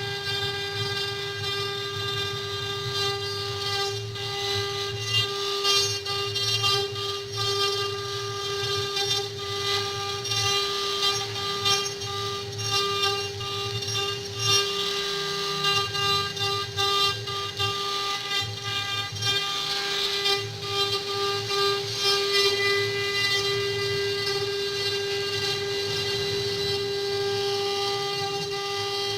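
A CNC wood-carving router at work: its spindle gives a steady high whine, over the irregular rasp of the bit cutting wood and a low machine hum.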